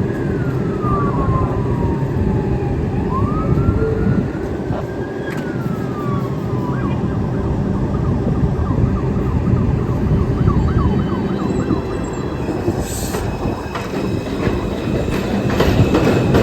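An emergency vehicle siren wailing up and down over the steady, loud rumble of a New York subway train at an elevated station; the wail gives way about six seconds in to a quicker series of short rising and falling sweeps.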